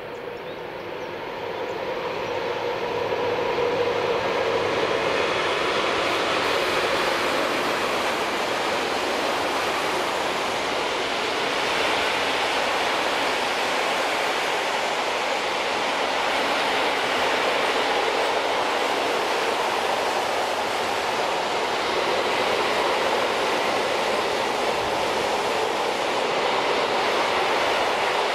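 Freight train behind an electric locomotive rolling past, its long string of wagons rumbling steadily on the rails. The noise builds over the first few seconds as the train draws close, then holds even while the box and tank wagons go by.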